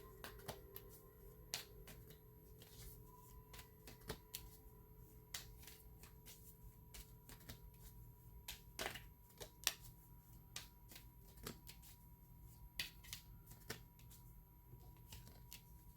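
Tarot cards being shuffled and handled: faint, irregular snaps and ticks of the cards.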